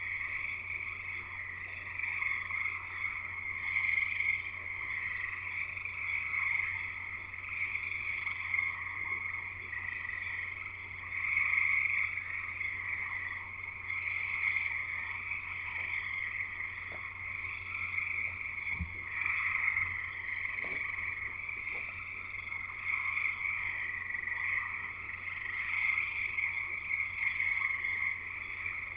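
A dense chorus of many frogs calling without a break, the massed calls swelling and easing every few seconds.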